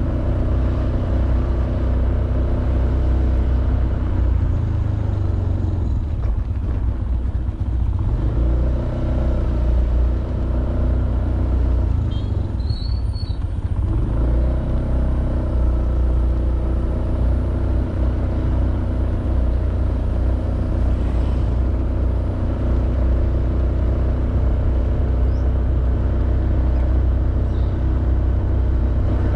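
Honda Beat 110cc single-cylinder scooter engine running under way, with a steady engine note. The throttle eases off twice, about a quarter and about half of the way through, and the note drops before picking up again.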